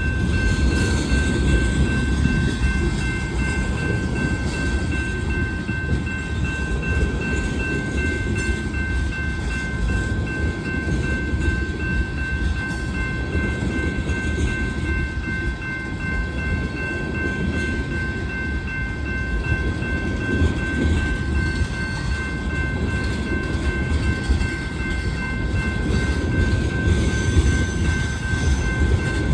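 A freight train of tank cars rolling past, a steady low rumble of wheels on rail with light clatter. Thin steady high-pitched tones sit over it throughout.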